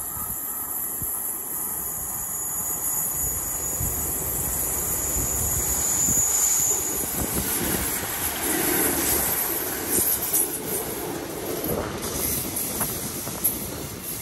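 A train running past on the line, its noise building to its loudest around the middle, with a thin high whine over the first half that stops about seven seconds in. Gusts of wind buffet the microphone.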